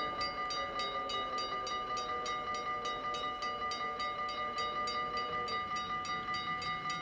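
Dutch level crossing warning bell ringing fast and steadily, about four to five strikes a second.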